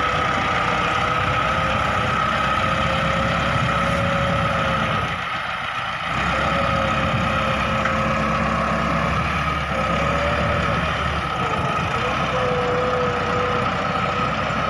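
Massey Ferguson 385 tractor's diesel engine running steadily, with a brief drop in level about five seconds in.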